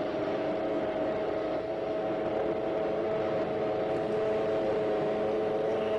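Steady spaceship hum sound effect for a landed UFO: a constant drone made of several sustained tones over a low hiss, holding an even level throughout.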